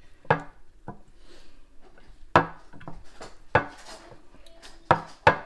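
Kitchen clatter: about half a dozen sharp, separate knocks of dishes and utensils.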